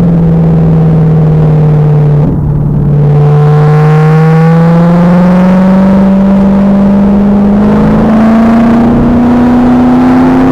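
2000 Pontiac Trans Am Firehawk's LS1 V8 under load, loud in the car's cabin. It dips briefly about two seconds in, then pulls with its pitch climbing slowly as the car accelerates.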